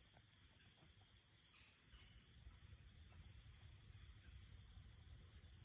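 A faint, steady, high-pitched chorus of insects, with no break.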